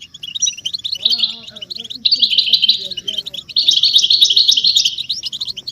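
A group of European goldfinches twittering and chattering in fast, high, tinkling bursts, with short lulls between bouts.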